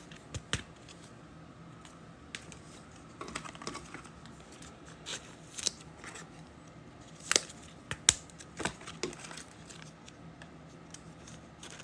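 Trading cards and pack wrappers being handled: scattered light clicks, rustles and crinkles, with two sharper snaps about seven and eight seconds in.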